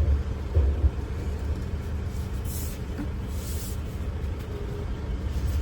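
Steady low rumble of an idling engine, with two brief high hisses about two and a half and three and a half seconds in.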